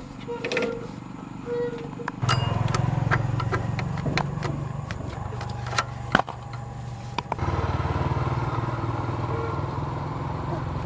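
A few clicks and knocks, then a motor starts suddenly about two seconds in and runs with a steady low hum. It cuts out briefly about seven seconds in and starts again.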